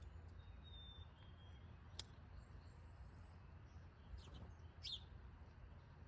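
Faint, scattered bird chirps: a short thin whistle about a second in, a sharp tick at two seconds, and a couple of quick chirps between four and five seconds, over a low steady background.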